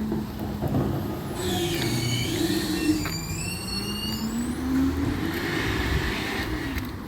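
Recycling truck engine running and revving up, its pitch rising to a peak about five seconds in. High squeals sound over it between about one and a half and four seconds in.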